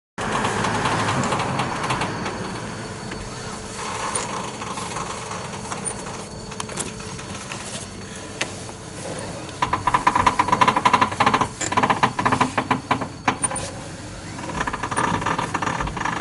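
Daihatsu Hijet's steering making an abnormal noise as the steering wheel is turned: bouts of rapid clicking over a steady mechanical hum, loudest from about ten to thirteen seconds in.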